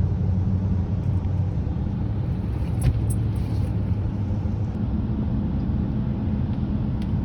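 Steady low rumble of a car heard from inside the cabin, with a brief click about three seconds in and another near the end.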